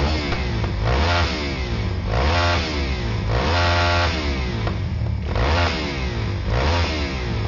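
A 400 cc motorcycle engine revved hard in a series of short throttle blips, about one a second, with one longer held rev about halfway through.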